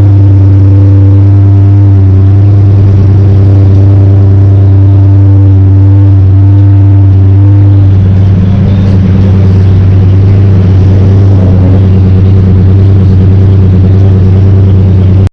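Car engine running steadily and very loud, close to the microphone, its note changing slightly about halfway through.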